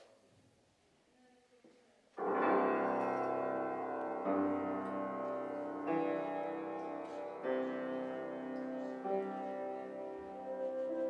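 Piano playing a slow introduction of sustained chords, starting about two seconds in after faint room tone; the chords change every second and a half or so.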